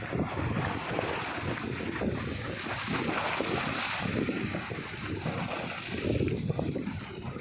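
River waves splashing against an embankment in strong wind, with wind buffeting the microphone in uneven gusts.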